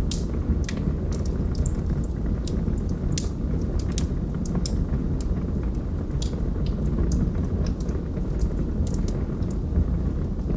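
Wood logs burning in a fireplace: a steady low rush of flame with frequent sharp, irregular crackles and pops.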